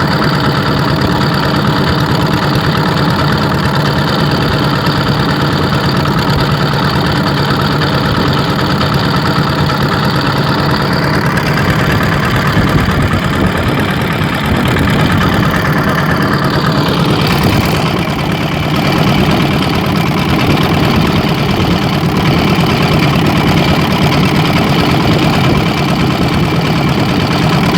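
A ship's engine running steadily with a deep hum. Between about 11 and 18 seconds in, a higher tone slides gradually down in pitch over the hum.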